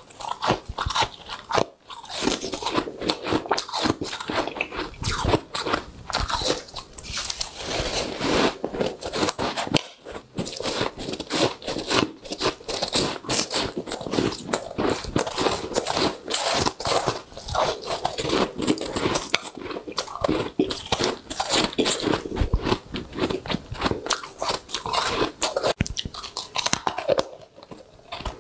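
Close-miked biting and chewing of soft, powdery freezer frost: a dense run of rapid crunching and crackling.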